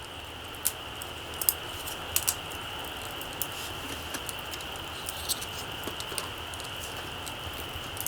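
Small wood campfire burning low, with sharp, irregular crackles and pops from the burning wood over a steady high hiss.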